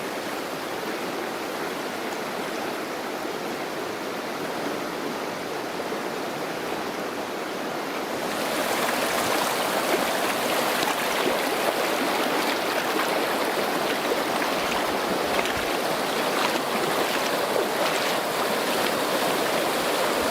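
Stream water rushing steadily. It grows louder and brighter about eight seconds in.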